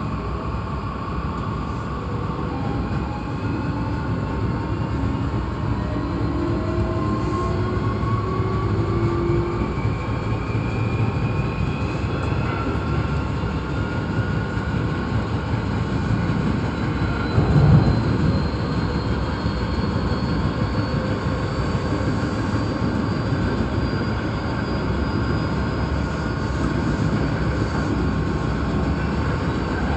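Hankyu 8300 series electric train running on the line, with a rising motor whine of several tones as it gathers speed over the rumble of wheels on rail, and one heavy thump about two thirds of the way through.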